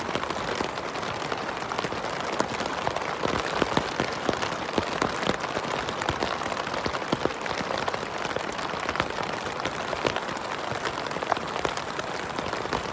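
Steady rain falling close by: a continuous hiss with many individual drops striking sharply on a nearby surface.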